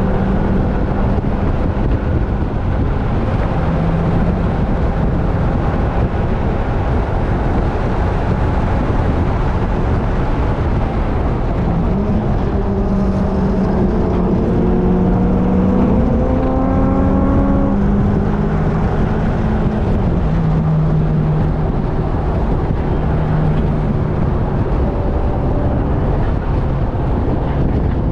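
Onboard sound of a car at speed on a racetrack: engine drone under heavy road and wind noise. The engine pitch climbs steadily for several seconds mid-way, then drops about twenty seconds in.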